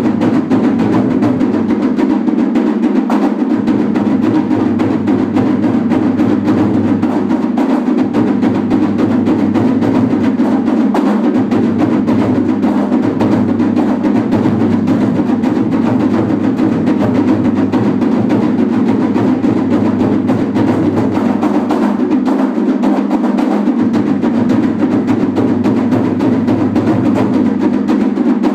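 Festival taiko drums beaten loudly and without a break.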